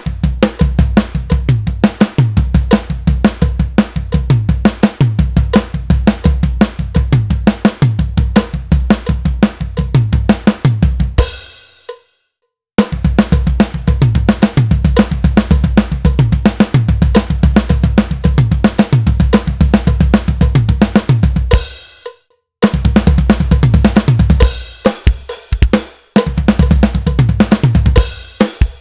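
Acoustic drum kit played in three passes, with short breaks about twelve and twenty-two seconds in: a beat on kick, snare and hi-hat, with a fill of alternating single-stroke sixteenth notes crossing between snare and floor tom, and a cymbal crash ringing out before the first break.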